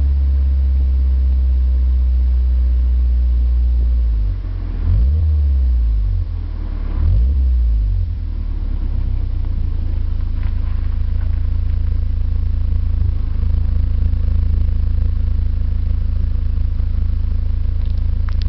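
BMW Z3 1.9's M44B19 inline four-cylinder engine running through an OBX aftermarket exhaust while driving. It drones at steady revs for about four seconds. The revs then dip and rise twice, and from about eight seconds in it settles into a lower, rougher rumble.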